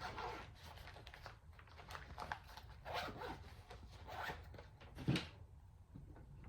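Faint rustling and light knocks of hand tools being taken out of a tool bag and handled, with one sharper knock about five seconds in.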